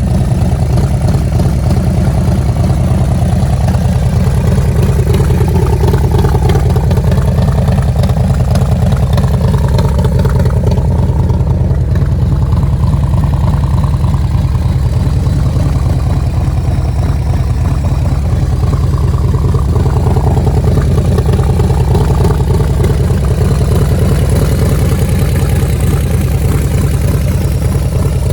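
1993 Harley-Davidson FXRS's Evolution V-twin idling steadily through a SuperTrapp exhaust, a deep, even exhaust note with no revs.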